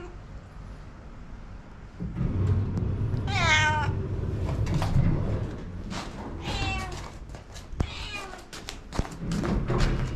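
A domestic cat meowing three times, a few seconds apart; the first meow, about three seconds in, is the loudest. Low rumbling noise and a few light taps run under the meows.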